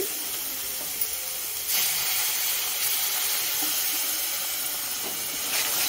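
Spiced tomato masala paste sizzling in a hot kadhai. The hiss jumps louder a little under two seconds in, as a little water is poured onto the hot paste and steams off.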